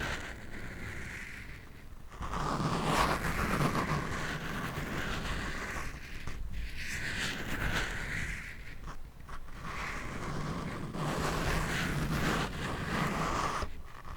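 Scratching directly on a microphone: a rough rustling noise in long sweeps of a few seconds each, with short breaks about two, six and nine seconds in.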